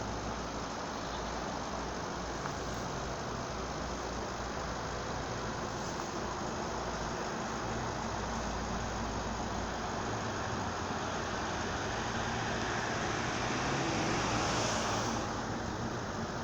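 Motorway traffic noise: a steady hum of tyres and engines that swells about fourteen seconds in and then eases.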